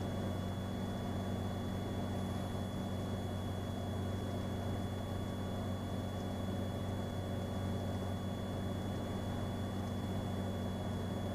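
Cirrus SR22's six-cylinder piston engine and propeller droning steadily in the cockpit on final approach, with a thin steady high tone over it.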